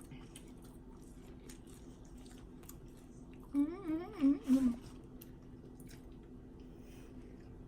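A person hums briefly with a wavering, up-and-down pitch about three and a half seconds in, over quiet room tone with a steady low hum and faint small ticks.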